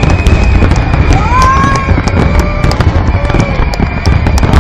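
Fireworks finale: a dense, loud barrage of overlapping bursts and sharp crackles over a continuous low rumble.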